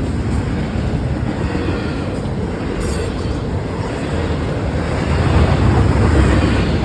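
Train passing close by, a steady rumble of wheels on rail that grows louder about five seconds in.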